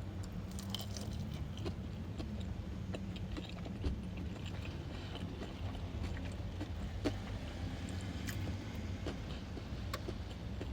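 Close-up chewing of food dipped in honey mustard sauce: scattered small wet clicks and crunches of the mouth, over a steady low hum.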